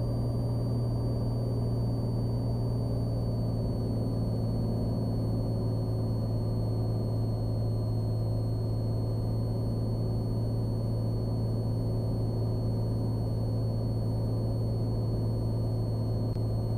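Steady low drone of a Cessna Skylane's piston engine and propeller in descent on an instrument approach, heard inside the cockpit, with faint thin high whines held steady over it.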